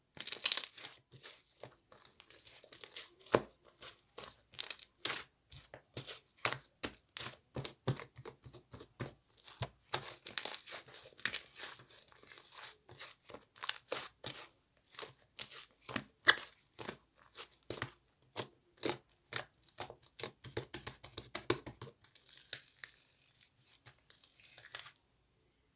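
Fluffy cloud slime being pulled apart and squeezed by hand. It makes a rapid, irregular run of crackly tearing and crinkling sounds, which stops abruptly about a second before the end.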